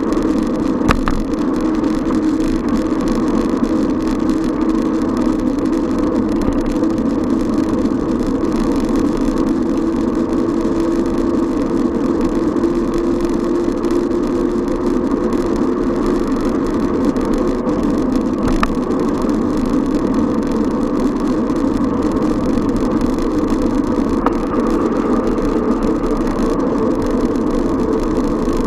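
Steady city traffic noise heard from a moving bicycle, with motor vehicle engines running, and a few short clicks.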